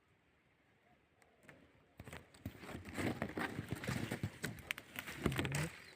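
Leaves and twigs rustling and crackling as a bird's nest in a bush is handled, starting about two seconds in after a quiet start.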